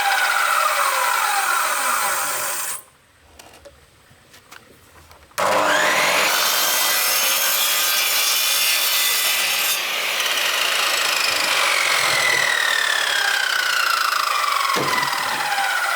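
Power saw cutting bamboo. It runs, stops for about two and a half seconds, then starts again suddenly with a rising whine about five seconds in, and its pitch slides down as the blade bites into the cut.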